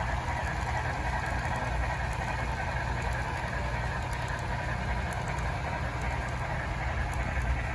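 HO scale model train running past, a steady mechanical hum with faint scattered ticks.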